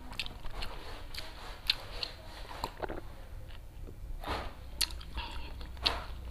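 Close-miked wet chewing and lip-smacking of a man eating rice by hand, with many small sharp smacks. About four seconds in, he takes a drink of water from a glass mug, and there are a couple of louder gulping swallows.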